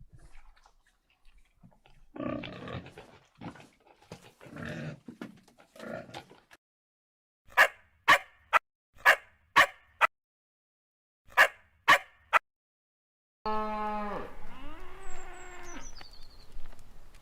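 A dog's short, sharp yips in two quick runs of about five and three, after a few seconds of rougher, lower whining calls. Near the end comes a longer drawn-out call that slides down in pitch.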